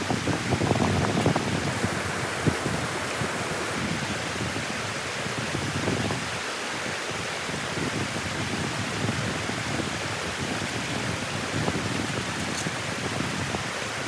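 Steady rush of water flowing through the dam, with gusts of wind buffeting the microphone.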